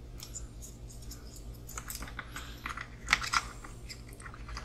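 Light clicks and taps of small plastic model parts being handled and fitted, with a cluster of sharper clicks about two and three seconds in.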